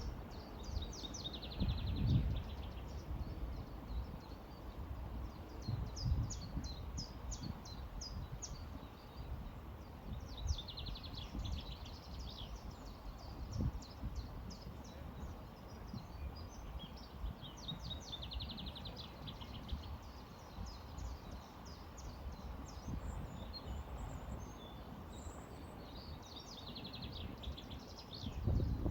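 Several songbirds singing with short high chirps, one repeating a trilled phrase about every eight seconds. Under them runs a steady low rumble of flowing river water, swelling a few times.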